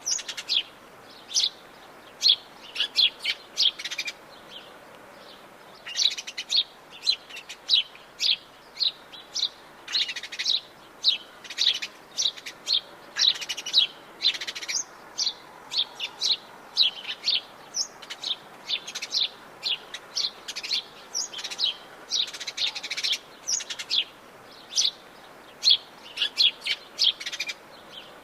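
Several forest birds calling and singing, a steady stream of short high chirps and trills with a short lull about five seconds in, over a faint background hiss.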